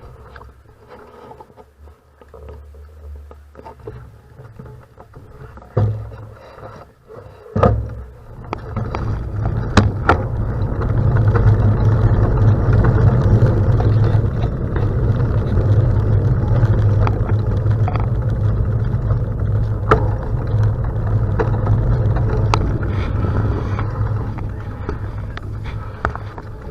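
Steady low rumble of wind and road noise from moving along. It builds about eight seconds in after a quieter stretch of scattered clicks, with a few sharp clicks on top.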